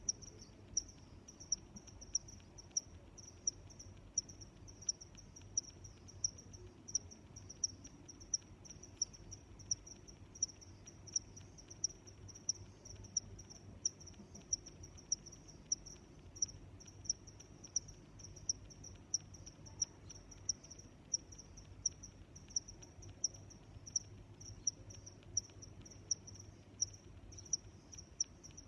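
A cricket chirping in an even rhythm, short high-pitched chirps about three every two seconds, over a faint low background rumble.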